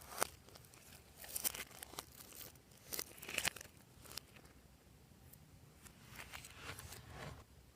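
Slime being pressed and stretched by hand, giving irregular sticky crackles and small pops, with a louder cluster about three seconds in and a longer run of crackling near the end.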